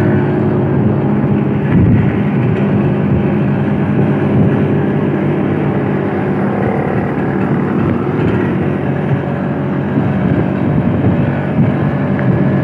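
Old Vespa scooter's two-stroke single-cylinder engine running steadily on the road, with some wind and road noise. Its exhaust has come apart, giving it a raw "brot" note like a Vespa Extreme.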